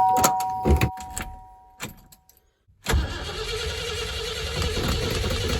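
A car's engine being started after two months parked. Two steady tones and a few clicks give way to quiet, and about three seconds in the engine turns over with a sudden, steady, rapid mechanical clatter.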